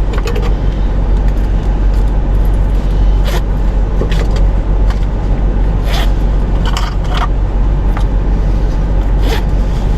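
Loose coins clinking now and then as change is counted out by hand, a handful of short metallic clicks, over the steady low hum of an idling car heard from inside the cabin.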